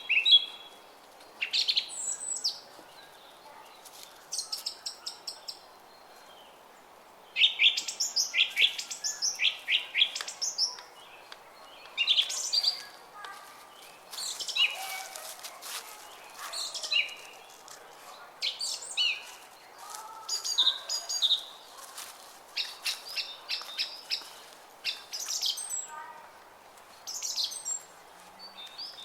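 Songbirds chirping and singing in short phrases of quick repeated high notes, one after another with brief gaps, over the faint steady murmur of a brook.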